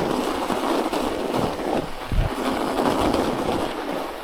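Bicycle tyres rolling over packed snow, a steady grainy rolling noise, with a low thud about two seconds in as the bike goes over a bump.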